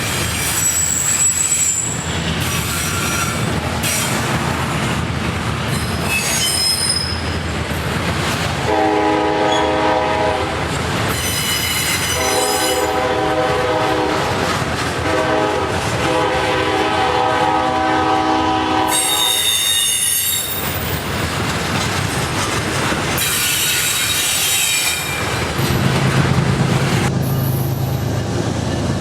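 Freight train passing, its locomotive air horn sounding three long chords from about a third of the way in. Steel wheels squeal high and thin on and off throughout, and the diesel locomotive's engine rises to a steady low hum near the end.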